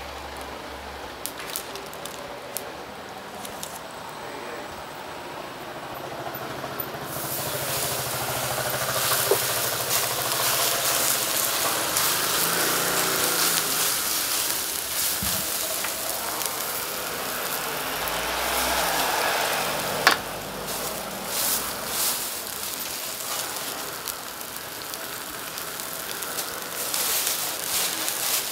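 Hand mixing green onions through batter in a steel bowl, then, from about seven seconds in, a steady sizzle as batter-coated green onions are spread on a hot griddle for a Korean green onion pancake (pajeon).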